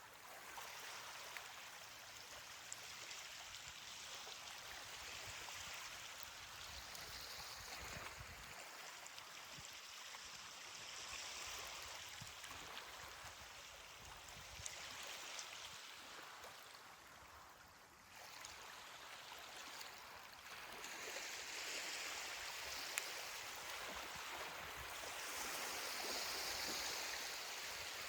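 Ocean surf washing onto a beach: a steady hiss of breaking and receding waves that swells and eases every few seconds.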